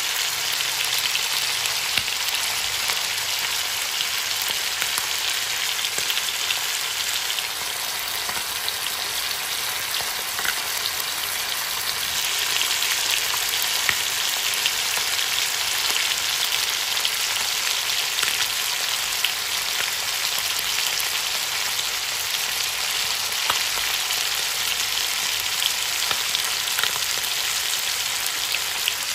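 Chicken thighs frying in hot oil in a pan: a steady sizzle with scattered small pops.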